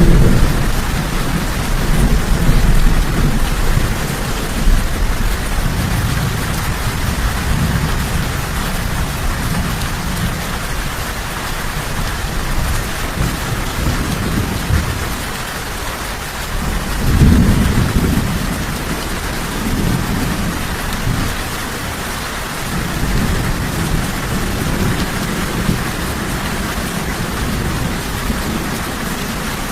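Steady rain falling in a thunderstorm, with low rolling thunder rumbling beneath it; the thunder swells near the start and again about halfway through.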